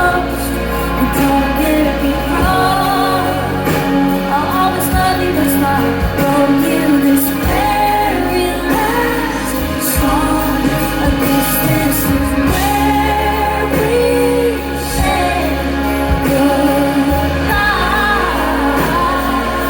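Live pop music: a woman singing with a band, with the echo of a large concert hall.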